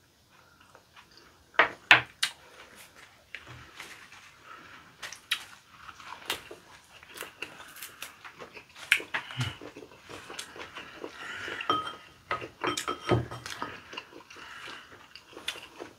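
Eating sounds from fresh leaf wraps of lettuce and perilla: wet chewing and crunching of the leaves, with sharp clicks of a spoon and chopsticks against dishes, two loud clicks about two seconds in.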